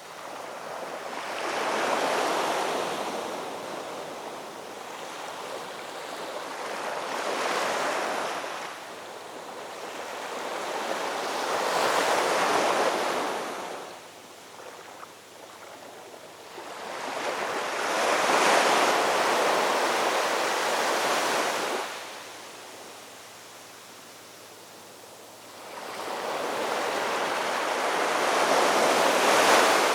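Ocean waves breaking and washing up on the shore, five surges that swell and fade every few seconds, the longest about two-thirds of the way through.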